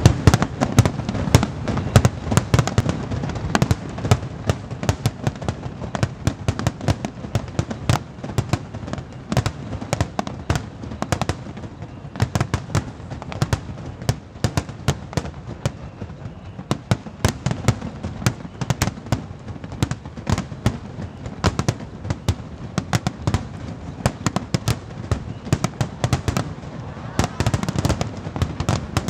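Aerial fireworks display: a dense, unbroken run of bursting shells and crackle, with heavier booming in the first few seconds and again near the end.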